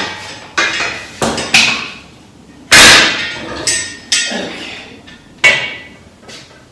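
Hammer blows on metal, about eight sharp strikes at uneven intervals, each ringing briefly; the strike a little under three seconds in is the loudest.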